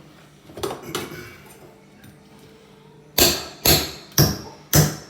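Hammer blows knocking a bathroom sink fixture loose from the wall: a few light knocks, then from about three seconds in a run of hard, even strikes at about two a second.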